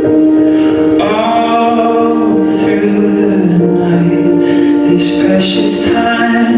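Music with singing: voices holding long notes over an accompaniment.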